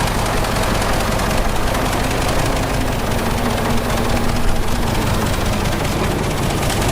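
Diesel engine of heavy earthmoving machinery, a bulldozer or dump truck, running steadily under work, with a low, even drone.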